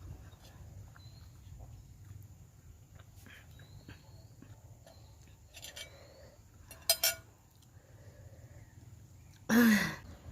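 Faint background with two sharp clicks a little past the middle, then one short, loud cry falling in pitch near the end.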